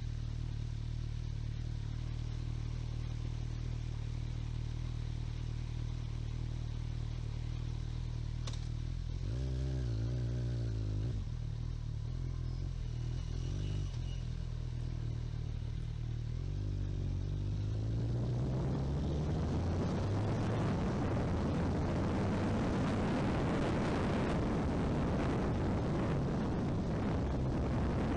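Motorcycle engine running steadily at low revs, with its pitch wavering briefly about a third of the way in. From about two thirds in the engine note climbs as the bike accelerates, and rushing wind and road noise build up and stay loud.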